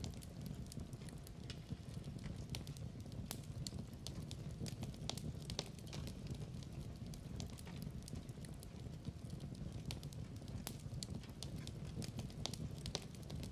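Wood fire crackling in a fireplace: a steady low rumble of flames under many irregular sharp pops and snaps.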